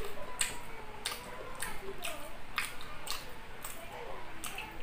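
Close-up mouth sounds of a man chewing chicken liver adobo: wet smacks and clicks of the lips and tongue, about one or two a second.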